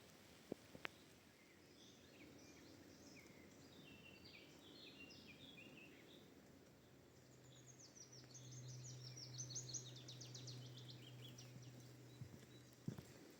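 Faint birdsong: short varied chirping phrases, then a fast trill of repeated notes falling in pitch. Under the trill runs a steady low hum that stops near the end, and there are two soft clicks in the first second.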